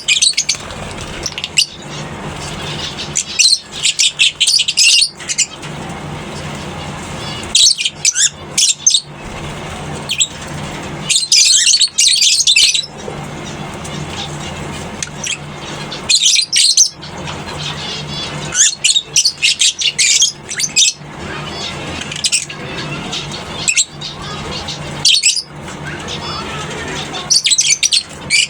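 A flock of lovebirds chattering and screeching in shrill bursts that come and go every few seconds, over a steady low hum.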